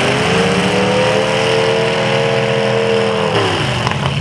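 Demolition derby car engine revving up, held high for about two seconds, then dropping back off, over the steady running of another engine.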